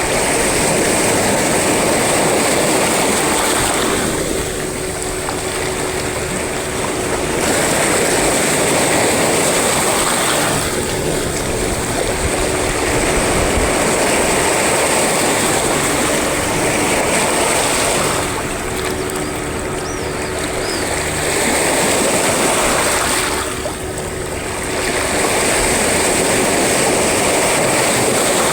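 Loud sea waves washing and breaking on the shore, a continuous rush that swells and eases every several seconds.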